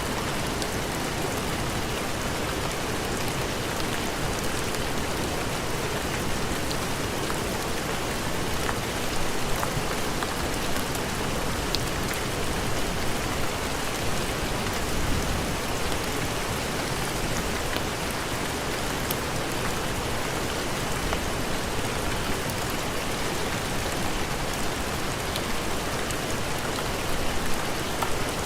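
Heavy rain falling steadily, a dense even hiss with scattered sharper ticks of individual drops.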